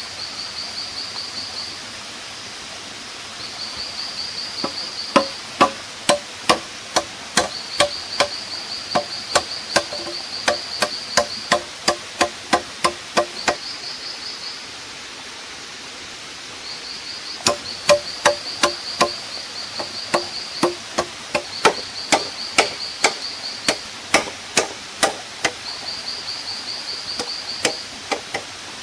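Hand-tool strikes on wood, about two a second, in two long runs with a short pause between, each blow ringing briefly. An insect trills in short, fast-pulsed bursts throughout.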